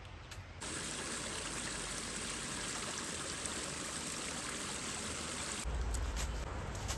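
Steady rush of flowing stream water. It cuts in abruptly about half a second in and cuts off abruptly near the end.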